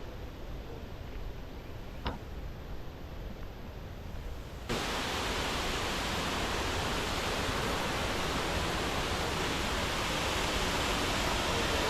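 Steady rushing noise with no clear tone, which turns abruptly louder and fuller about five seconds in. A single faint click comes about two seconds in.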